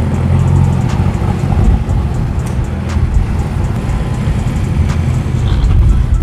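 Car engines running with a deep low rumble, with music playing underneath.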